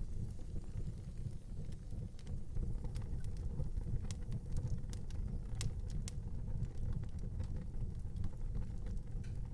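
Outdoor fireplace fire burning: a steady low rumble with frequent small crackles and pops, one sharper pop about halfway through.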